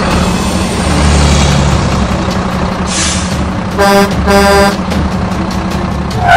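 Truck sound effect: a truck engine running steadily, a short hiss about three seconds in, then two horn honks close together.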